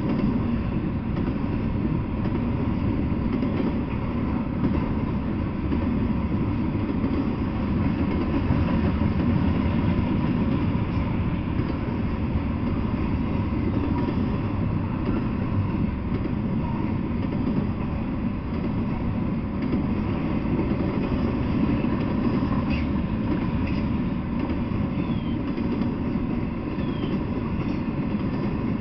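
Intermodal freight train of double-stacked containers on well cars rolling past, its wheels on the rails making a steady rumble.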